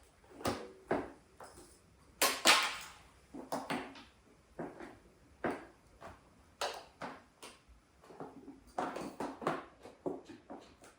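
Metal hand tools and parts clinking and knocking in an irregular string of short clacks and rattles, the loudest cluster about two seconds in.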